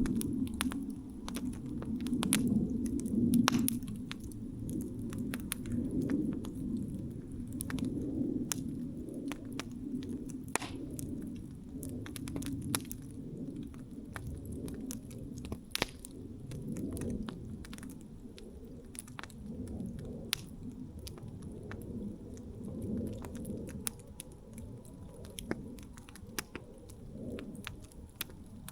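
Wood campfire burning: frequent sharp crackles and pops from the burning wood over a low, steady rumble.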